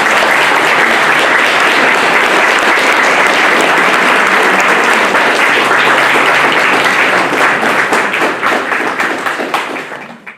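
Audience applause, steady and dense, thinning out near the end before cutting off abruptly.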